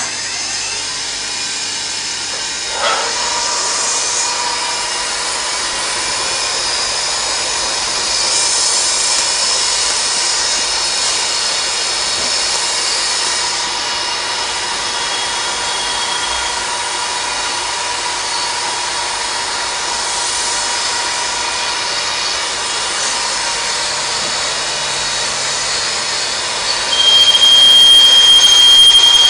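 CNC machining centre running and cutting: a steady machining noise with faint high tones. Near the end it gets louder and a high steady whine comes in.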